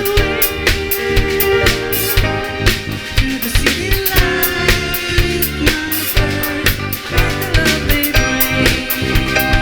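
A band playing a song with a drum kit keeping a steady beat of snare and bass drum hits under sustained pitched instruments.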